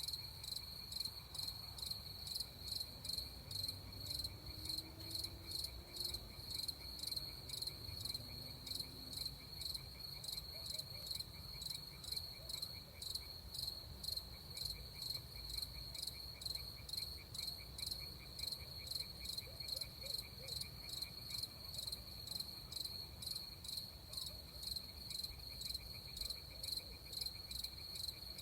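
Crickets chirping in a steady pulsing rhythm, about two pulses a second, with a fainter fast trill underneath and a low steady rumble below.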